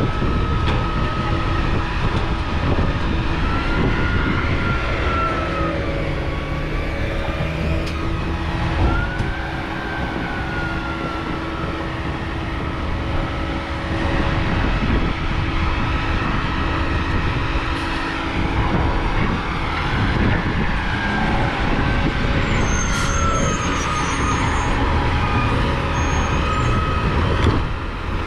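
Garbage truck running, its engine humming steadily under a whine that slowly rises and falls in pitch several times.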